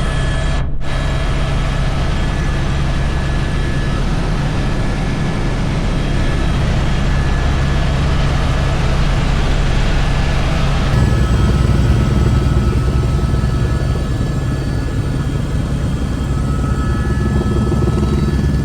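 Helicopter in flight: a steady drone from the rotor and turbine engine, with a constant whine over it, getting louder and heavier about eleven seconds in.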